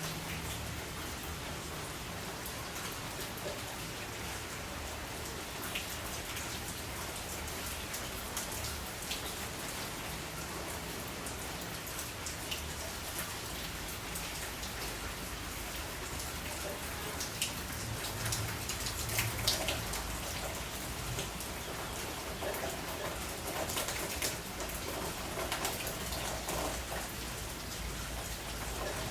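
Steady rain falling, with many individual drops ticking on a hard surface at irregular intervals.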